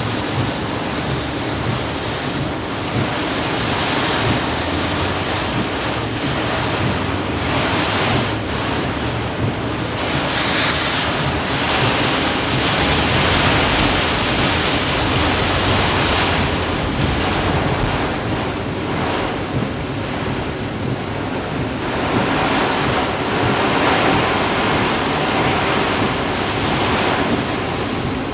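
Hurricane-driven surf crashing in a continuous wash, with gusty wind buffeting the microphone. The roar swells louder now and then as bigger waves come in.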